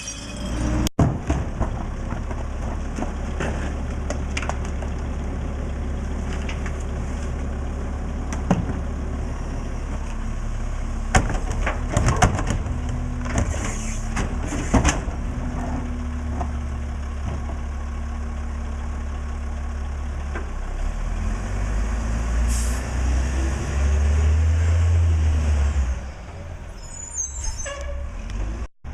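Mack LE garbage truck's diesel engine running steadily, with scattered knocks and clanks from the collection work. Near the end the engine gets louder and its note rises for a few seconds, then falls off suddenly, with short hisses of air from the brakes.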